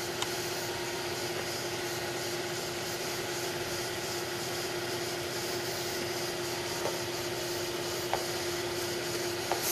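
Air compressor running steadily with a constant hum, pumping up the tank of a homemade air cannon, then cutting off suddenly near the end.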